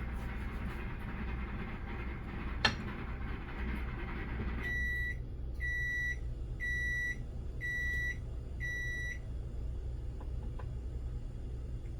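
Microwave oven running with a steady hum and one sharp click, then the hum cuts off and the oven beeps five times, about once a second: the cooking cycle has ended.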